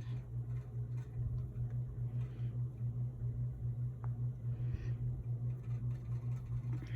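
A steady low mechanical hum, pulsing slightly several times a second, with a few faint brief rustles over it.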